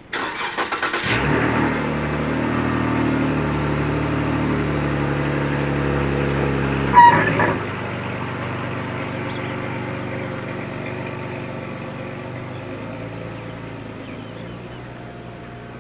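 Pickup truck engine cranking and starting, then running steadily. About seven seconds in there is a brief loud clunk with a short beep and the engine note changes, after which the running sound carries on more quietly, fading gradually.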